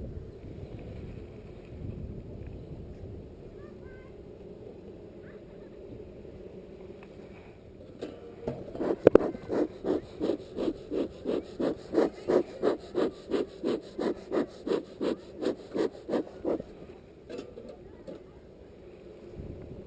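Beekeeper's smoker bellows pumped in a steady run of about twenty puffs, roughly two and a half a second, starting about eight seconds in and stopping near the end, over a low steady hum.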